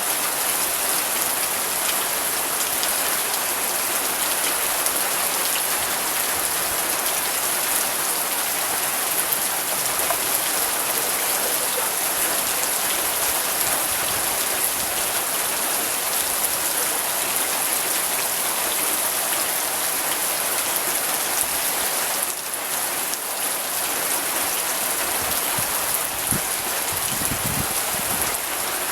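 Steady rain, a dense even hiss of drops falling on surfaces, with a few fainter patters coming through now and then.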